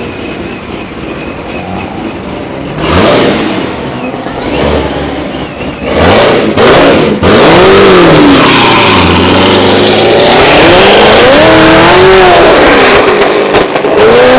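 A high-performance car engine revving hard and loud: a burst, a few quick blips, then several long revs whose pitch rises and falls again and again.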